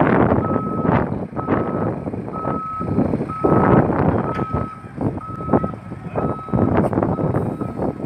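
A vehicle's reversing alarm beeping steadily about once a second, over loud, uneven rumbling surges from a heavy vehicle at work.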